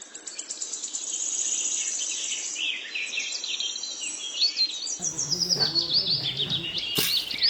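Rapid high-pitched chirping of insects and birds, with short falling chirps throughout; some lower-pitched sound joins about five seconds in.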